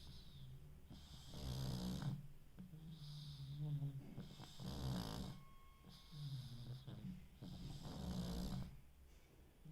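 Pug snoring, a low rattle with a hiss on top, repeating in a steady rhythm of about five breaths, roughly one every second and a half.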